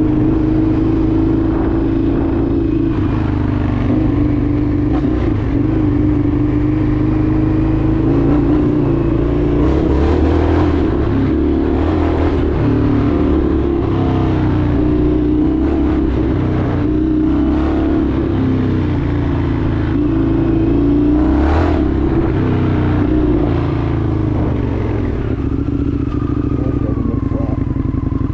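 Indian FTR 1200's V-twin engine running steadily under way, its pitch wavering a little. Several brief knocks and rattles come through around the middle.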